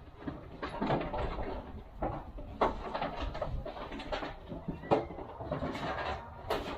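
Irregular clicks and knocks of hand work on a vehicle, such as tools and parts being handled, with a sharp knock about five seconds in.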